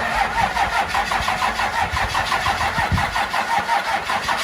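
Electric starter cranking a cold engine in a steady rhythm of about five turns a second, without it catching. The engine has sat for weeks in the cold, and its fuel has probably drained back from the pump.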